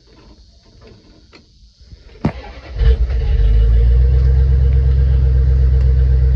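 1990 Dodge Ram D250's engine starting: a sharp click about two seconds in, a short crank, then it fires and settles into a loud, steady idle.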